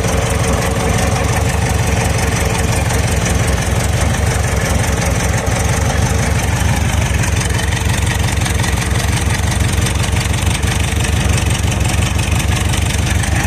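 1976 Volkswagen Beetle's air-cooled flat-four engine idling steadily.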